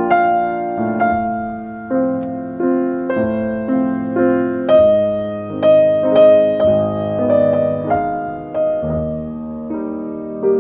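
Slow, gentle piano music: soft sustained notes and chords, a new note struck about every half second to a second.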